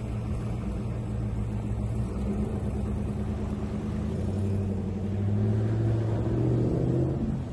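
A vehicle engine running at low revs, a steady low rumble that deepens and gets a little louder about four seconds in.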